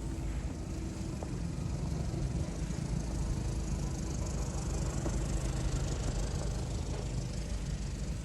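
Street ambience: a steady low rumble of traffic with a continuous hiss, and a faint steady hum that fits an engine running.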